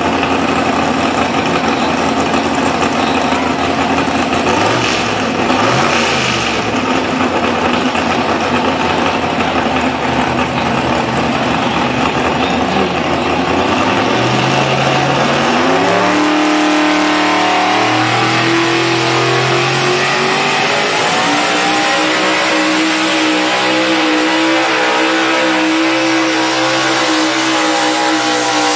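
Engine of a tractor-pull vehicle running loud and steady. About fourteen seconds in it revs up sharply and holds at high revs, with a strong hiss above the engine note.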